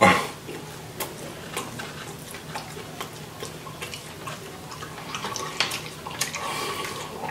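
Close-up mouth sounds of a man eating a glazed rib: a louder bite or tear of meat right at the start, then wet chewing with many small irregular lip smacks and clicks.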